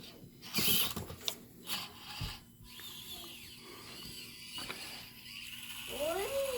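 Micro-scale RC rock crawler's small electric motor and gears whirring as it crawls over couch cushions, with several clicks and knocks in the first couple of seconds.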